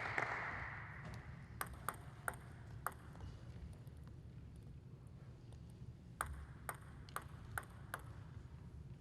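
Applause dying away, then a table tennis ball clicking in two short runs of bounces, four and then five quick sharp ticks about half a second apart.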